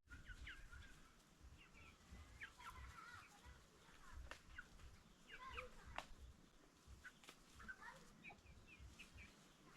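Faint calls of chickens: scattered short chirps and clucks, with a low rumble underneath.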